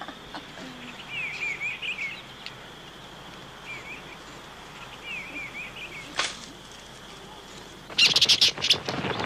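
Birds chirping in short repeated calls over a steady background hiss. A loud run of sharp clicks or knocks comes near the end.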